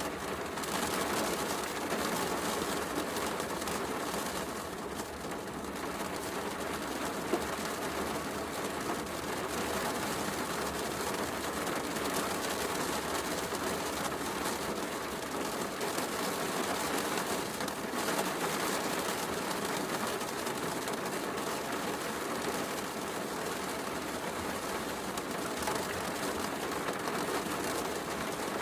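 Heavy rain falling steadily, an even hiss, with a wood fire crackling under it and one sharper pop about seven seconds in.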